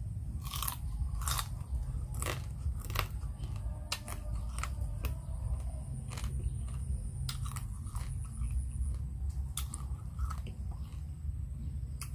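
Close-up chewing of crab from a Khmer crab salad, with irregular sharp crunches as the pieces are bitten and chewed.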